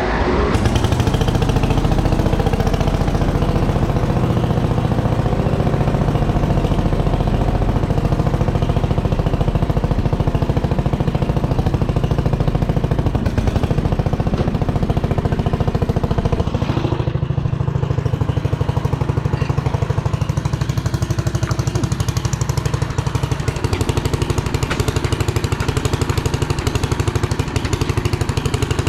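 Vehicle engine running steadily under way, with its note changing about seventeen seconds in.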